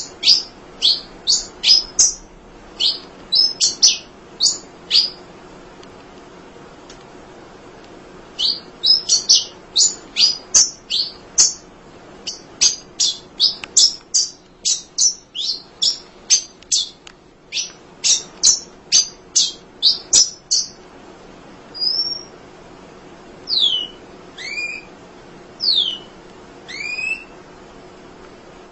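Munia (emprit) chirping: rapid strings of short, sharp, high chirps, a pause of about three seconds, then a long dense chatter lasting some twelve seconds. In the last seven seconds it gives way to a handful of single, slower calls that slide down in pitch.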